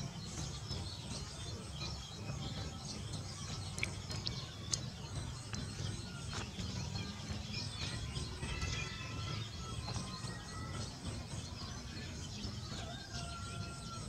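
Birds chirping and calling outdoors over a steady low rumble, with two sharp clicks about four seconds in.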